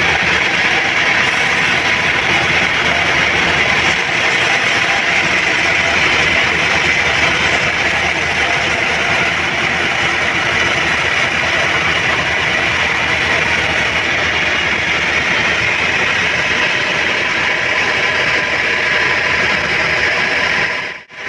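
Homemade bandsaw sawmill running steadily: a loud, even machine noise with a faint steady hum, which drops out briefly near the end.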